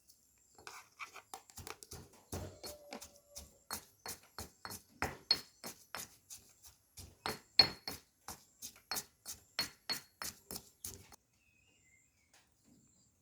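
A knife chopping on a cutting board, with a steady run of sharp strikes about three or four a second that stop near the end.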